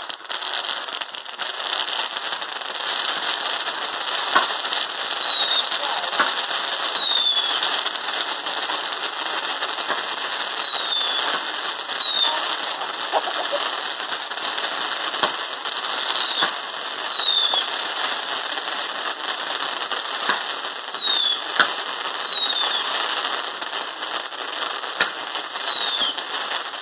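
Fireworks fizzing and crackling continuously. Pairs of sharp cracks, each followed by a falling whistle lasting about a second, come roughly every five seconds.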